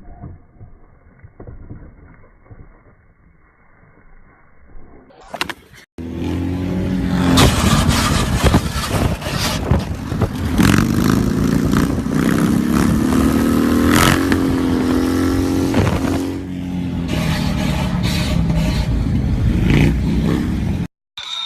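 A faint, muffled stretch, then about six seconds in, a sudden cut to a loud vehicle engine running and changing pitch as it revs, with many sharp knocks and scrapes over it. It stops abruptly near the end.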